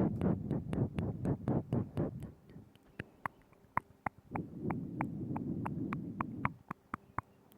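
Close-miked ASMR mouth sounds: a steady run of wet tongue and lip clicks, about four a second, with two stretches of softer, denser wet mouth noise, one at the start and one past the middle.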